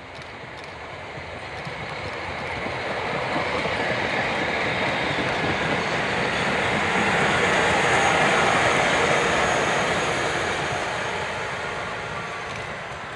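Electric railcar train of the Bavarian Zugspitze Railway running past on its metre-gauge track. Wheel and rail noise swells as it approaches, is loudest about eight seconds in as it passes close, then fades as it moves away.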